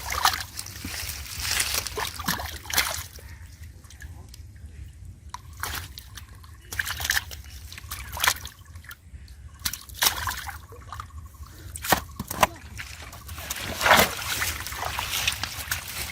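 Shallow river water sloshing and splashing in irregular bursts as hands and feet move through it, with a few sharper splashes.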